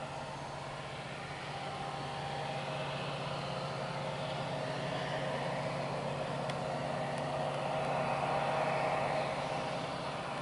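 Diesel-electric freight locomotives running with a steady hum, swelling gradually to its loudest about eight seconds in and then easing off slightly.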